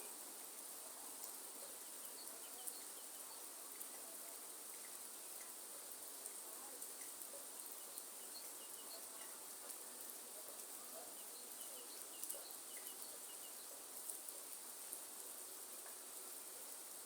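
Rain falling in a rainforest, a steady faint hiss with scattered drip clicks, under a constant high insect drone and short bird chirps here and there.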